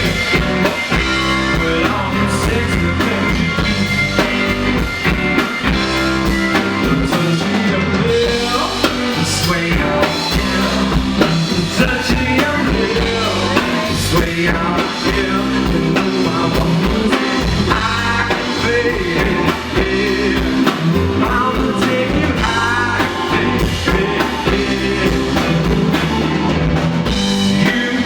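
Rock band playing live: drum kit and guitar, with singing at times.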